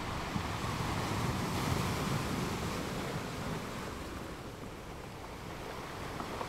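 Rushing noise ambience of the wind-and-sea kind. It swells to its loudest about one and a half to two seconds in, then eases off past the middle, with no distinct knocks or tones.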